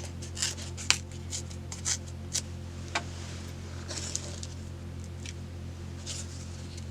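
Paper crafting at a desk: a quick run of short, scratchy strokes on paper, then a softer brushing sound and a few scattered strokes, over a steady low hum.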